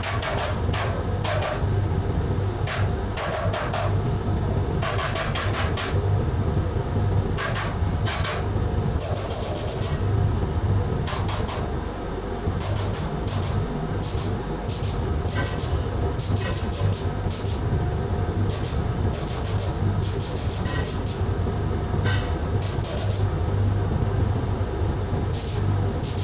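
Air compressor running with a steady hum while a sandblasting gun is fired in many short, irregular bursts of hiss.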